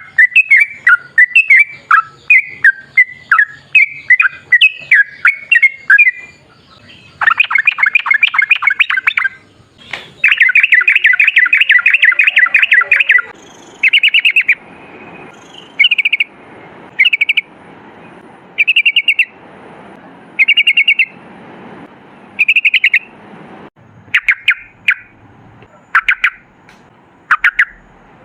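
Yellow-vented bulbul (trucukan) singing: quick bubbly chattering phrases, then long rapid rolling trills, then short chirping bursts about once a second.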